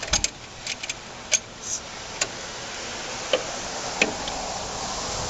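Scattered light metallic clicks and taps from the parts of a gas barbecue being handled as its rusted old burner is worked on, over a steady hiss.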